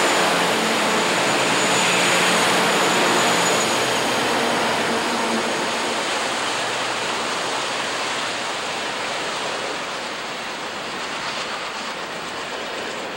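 Freight train passing close by: a diesel locomotive's engine hum fades over the first few seconds, and the wheels of freight cars then keep up a steady rolling noise on the rails that slowly gets quieter.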